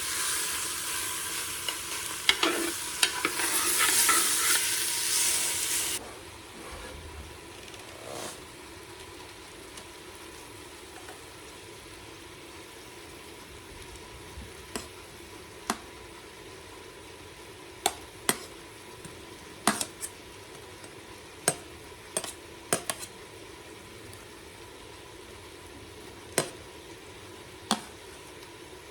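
Pork frying and sizzling in a pan while it is stirred. The sizzle is loud for about six seconds, then drops suddenly to a quieter steady sizzle. After that come sharp clicks of the spoon or spatula against the pan every second or two.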